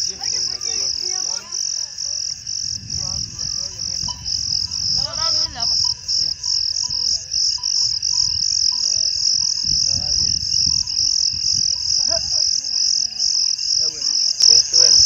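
Night insect chorus, a steady high-pitched trill pulsing about four times a second, with faint wavering calls coming and going lower down.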